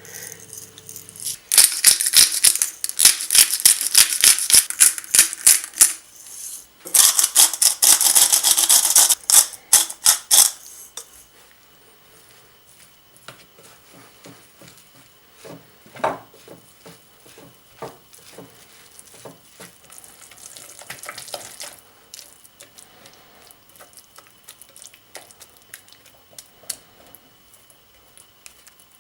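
Kitchen food preparation: two long bursts of rapid, busy clicking and scraping from utensils working in a bowl or on a board, then scattered light taps and clinks.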